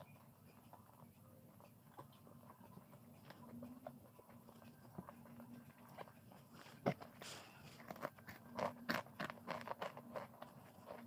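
Faint eating sounds: chewing with scattered small clicks, growing busier from about seven seconds in, over a faint steady hum.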